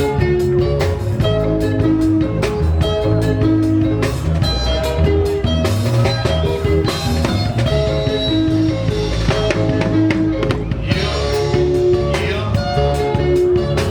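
Live band music: a repeating lead guitar figure of short quick notes over a steady bass line and a driving drum beat.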